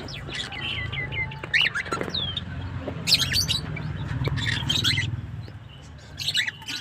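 Baby cockatiel chirping and calling: short chirps and falling whistled notes, with raspy bursts of calls about three seconds in, around four seconds and again near the end. A steady low hum runs underneath.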